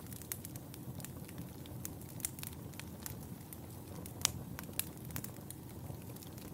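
Wood fire burning in a fireplace: a steady low rumble of flames with irregular sharp crackles and pops, one louder pop a little past the middle.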